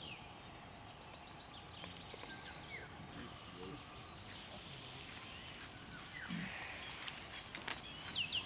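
Quiet rural outdoor ambience with wild birds chirping: scattered short calls, and a run of four or five quick repeated high chirps about six and a half seconds in.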